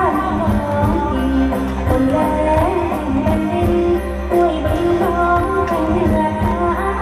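Chinese opera (ngiw) music: a singer's voice with gliding, held notes over instrumental accompaniment, loud and continuous.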